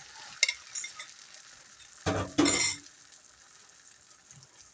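Beaten eggs sizzling in butter in a frying pan, with a few light utensil clinks early and a louder scrape of a utensil in the pan about two seconds in.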